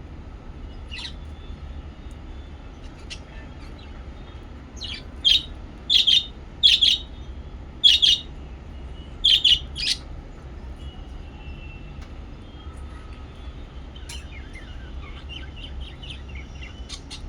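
Lovebirds calling: a run of about eight short, loud chirps in the middle, then fainter chirps near the end, over a steady low rumble.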